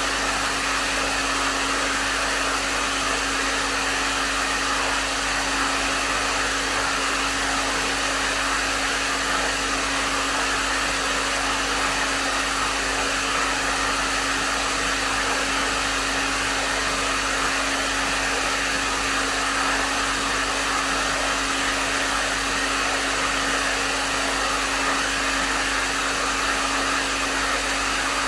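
Hair dryer running steadily at medium setting: an even rush of air with a steady low hum from the motor underneath, unchanging throughout.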